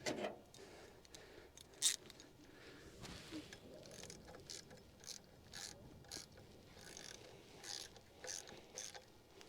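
Faint, irregular metal clicks and scrapes of hand tools, like a ratchet wrench, with one sharper click about two seconds in: a puller being fitted onto the crankshaft pulley's bolts.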